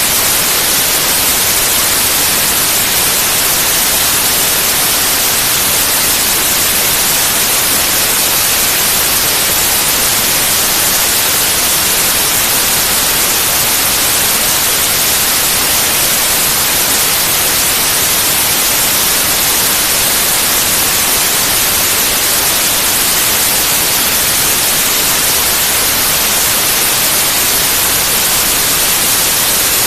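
Steady, loud white noise: an even, unchanging hiss spread across the whole range, brightest in the highs.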